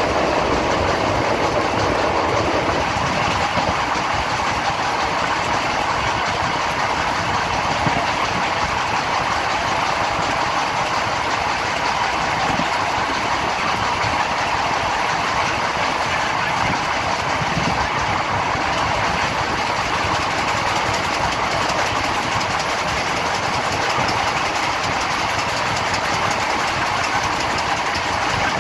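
Passenger express train running at speed: a steady, even rumble of coach wheels on the rails, heard at the open door of the coach.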